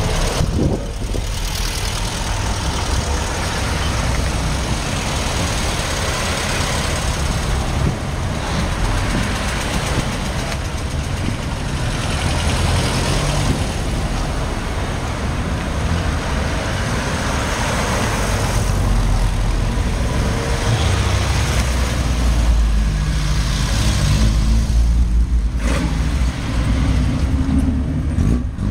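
Car engines running: a steady low rumble, with noise swelling and fading every few seconds.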